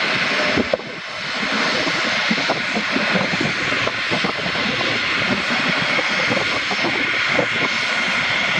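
Loud, steady fixed-wing aircraft engine noise with a high whine running through it. It drops suddenly about a second in, then builds back up and holds steady.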